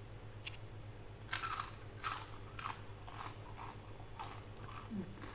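Crunchy food being bitten and chewed close to the microphone. A run of crisp crunches starts about a second in; the loudest come early, then fainter ones follow about twice a second.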